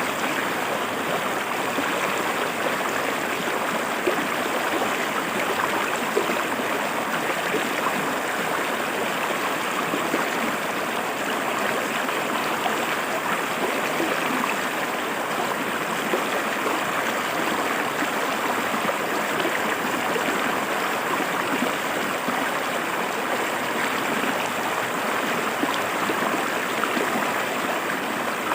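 River water flowing and splashing over rocks: a steady, even rush with small gurgles.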